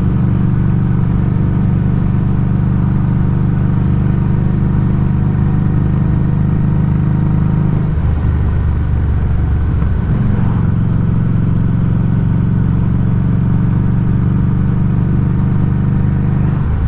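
Harley-Davidson Street 500's V-twin running under way through a Firebrand Loose Cannon slip-on muffler, picked up close at the muffler: a loud, steady exhaust note. The note dips and changes for about two seconds around the middle, then settles back.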